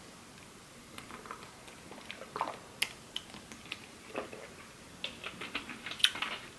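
Close-miked eating sounds: soft chewing with scattered small mouth clicks and smacks, coming thicker in the last second and a half.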